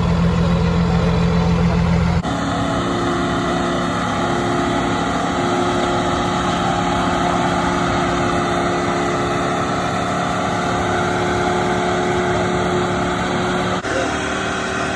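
Diesel pickup truck engine idling steadily. The sound changes abruptly about two seconds in and again near the end.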